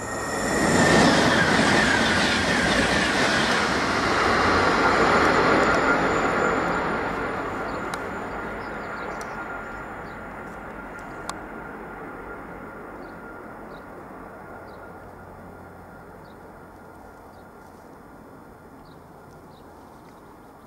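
Train on the HSL 1 high-speed line rushing past at speed, loudest about a second in, then fading steadily into the distance. A single sharp click about eleven seconds in.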